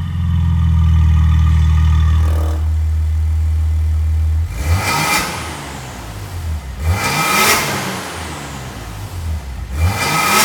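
Maserati Levante engine revving through an EXHAUTECH variable-valve exhaust. The revs are held steady for about four and a half seconds and cut off suddenly, then the engine is blipped three times, each rev rising and falling.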